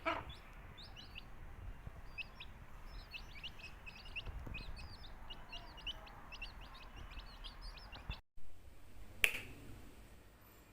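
Baby chicks peeping, many short high chirps that fall in pitch, coming rapidly and overlapping. About eight seconds in they cut off abruptly, and a single sharp click follows about a second later.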